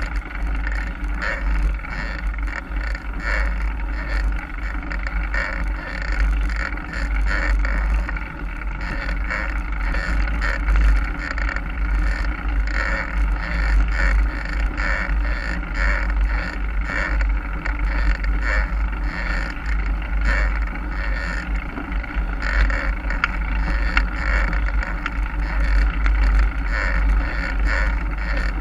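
Mountain bike ridden over a forest trail: a continuous rumble of wind buffeting the microphone, with the bike rattling and clattering over the ground.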